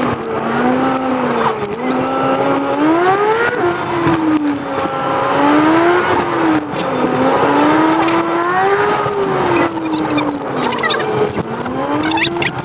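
Mercedes-AMG A45's turbocharged four-cylinder engine heard from inside the cabin, its pitch rising and falling with the throttle. The pitch climbs, then drops sharply about three and a half seconds in at an upshift, over steady road noise.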